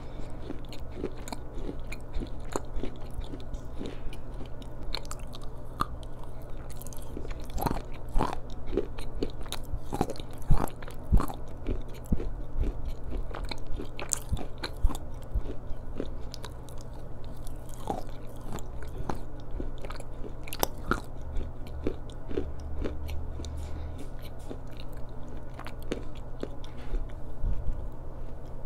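Black slate cubes being bitten and chewed right at a lavalier microphone: a dense run of sharp, irregular crunches, loudest about eight and ten to eleven seconds in. A steady low hum runs underneath.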